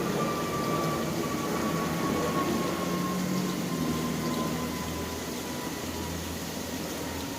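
Rainy city ambience: a steady hiss of rain and traffic with low rumble underneath, and a high whine that slowly falls in pitch throughout, like an electric train or tram slowing down.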